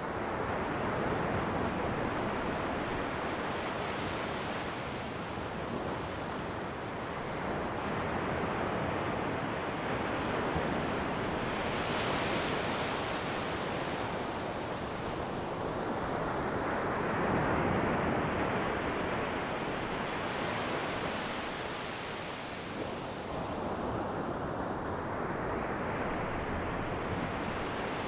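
Sea waves breaking and washing in, a steady hiss that swells and falls away in several slow surges.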